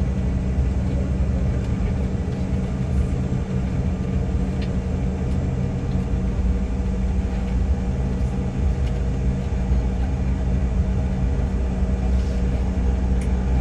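Steady aircraft cabin noise in flight: an even low rumble and drone of engines and airflow, with faint steady hum tones over it.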